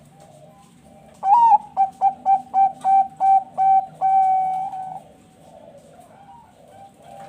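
Zebra dove (perkutut, Bangkok line) singing its song. It gives a first note, then a quick run of about seven short coos, then one long held coo that ends about five seconds in. Other doves coo faintly behind it.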